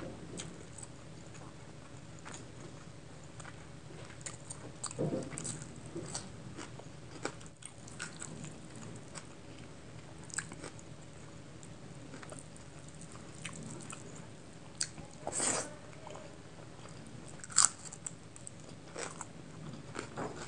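Close-miked chewing and wet mouth sounds of someone eating rice and chicken curry by hand, with fingers squishing rice on a plate. Short clicks come scattered through it, a longer louder sound about fifteen seconds in and the sharpest click a couple of seconds later.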